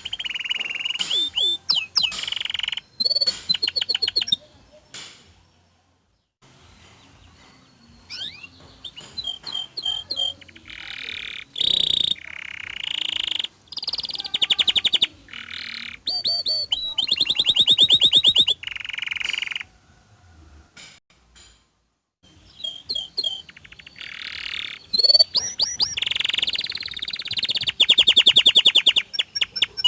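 Domestic canary singing in long phrases of rapid rolled trills and clear whistled notes, broken by two short pauses, about five seconds in and again about twenty seconds in.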